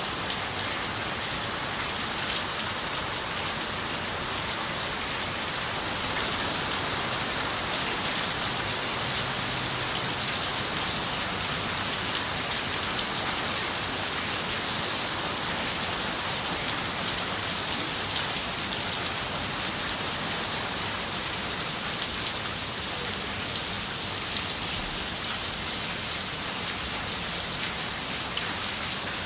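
Steady rain falling on a window: an even hiss with scattered sharper drop clicks.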